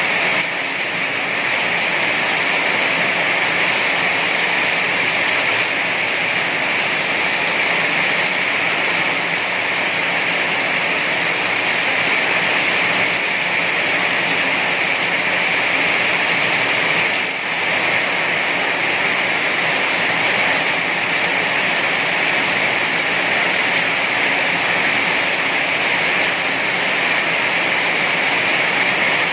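Heavy rain falling steadily as a dense, even wash of sound with no separate drops or thunder standing out, briefly dipping about 17 seconds in.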